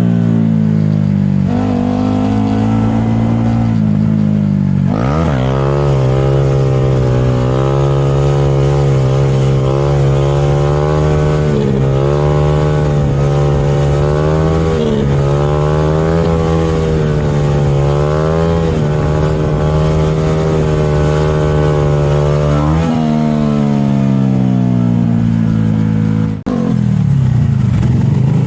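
Motorcycle engine running at held revs, wavering up and down, with a quick rise in revs about five seconds in. A sharp break comes about two seconds before the end.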